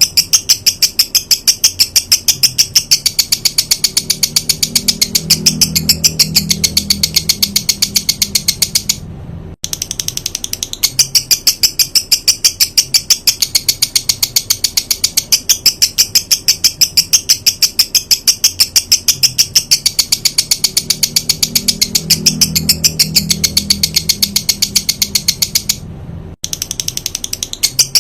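A songbird's rapid-fire 'tembakan' call, a dry, high-pitched rattle of about ten sharp notes a second, played as masteran (training song) for white-rumped shamas. It breaks off briefly twice.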